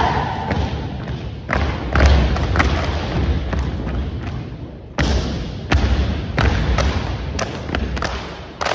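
Unarmed exhibition drill team stomping and slapping in unison: heavy foot stomps with sharp claps and body slaps in quick, irregular runs. There is a short lull, then a loud stomp about five seconds in.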